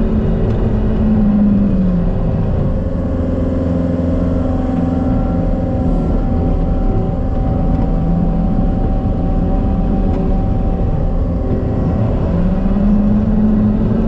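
John Deere 333G compact track loader's diesel engine running, its revs dropping about a second and a half in and climbing back up near the end.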